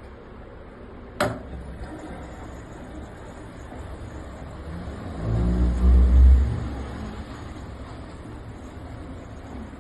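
LG front-loading washer-dryer resuming its cycle: a single sharp click about a second in, then a low hum with a loud low rumble in the middle as the drum starts turning again.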